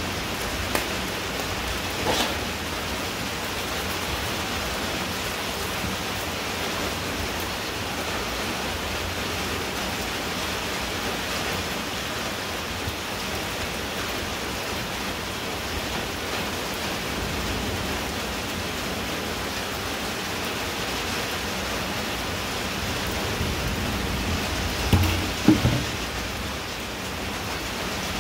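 Steady heavy rain hissing down on a muddy, puddled dirt yard, with a couple of brief low thumps about 25 seconds in.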